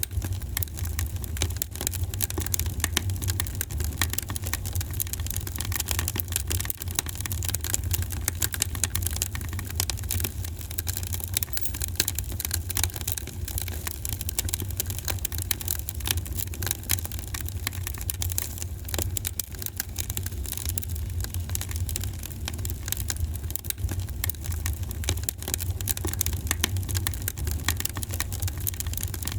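Wood fire in a fireplace crackling, with many quick irregular pops and snaps over a steady low rumble.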